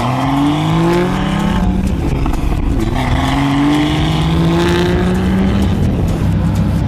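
Car engine accelerating hard, its pitch climbing in two long pulls: the first eases off about a second and a half in, the second runs from about three seconds to nearly six, then the engine settles to a steadier drone.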